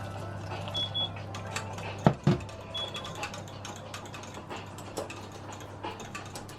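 Kitchen clatter while cooking: light clicks and taps over a steady low hum, with two louder knocks about two seconds in and a short high beep twice.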